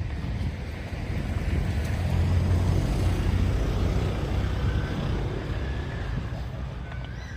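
A motor vehicle passing close by: a low engine rumble that builds about two seconds in and then fades, over street noise.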